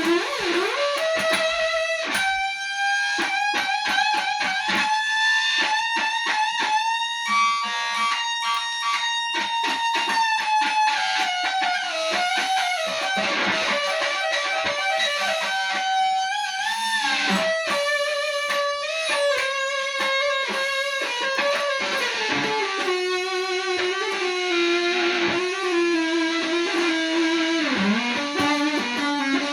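Electric guitar solo: long sustained notes bent up and down in pitch, with a slide downward in the last few seconds.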